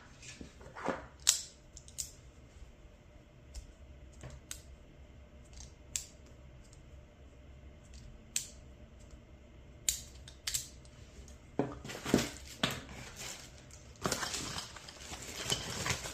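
3D-printed floating fidget slider being slid in the hand, giving sharp clicks one to two seconds apart. From about twelve seconds in there is denser rustling and clatter of handling.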